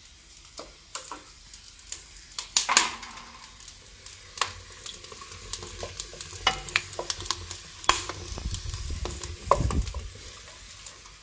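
Ginger-garlic paste sizzling as it fries in hot oil in a metal karahi. A wooden spatula stirs it, scraping and knocking against the pan again and again.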